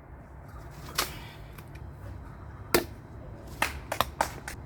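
A few separate sharp knocks and clicks over a low steady hum, the loudest about two-thirds of the way in, with a quick cluster of smaller ones near the end.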